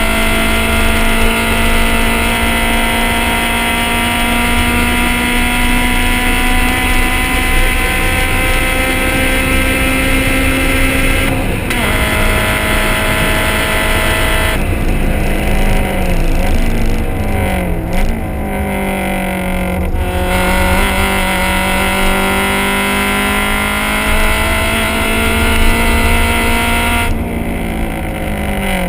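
Honda CRX's four-cylinder engine and exhaust under hard acceleration, revs climbing steadily through a long pull with a gear change about 11 seconds in. Midway it lifts off and downshifts with quick throttle blips, pulls again, and lifts with more downshifts near the end.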